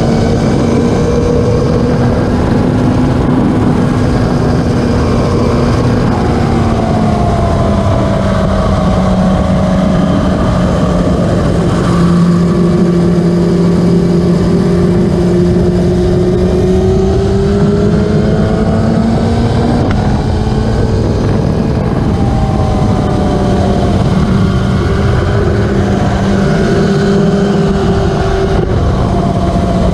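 Racing motorcycle engines running hard, several engine notes slowly rising and falling in pitch over a steady rush of noise.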